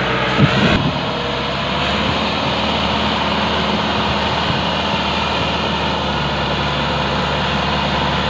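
Tractor diesel engine running steadily, with a brief louder sound about half a second in.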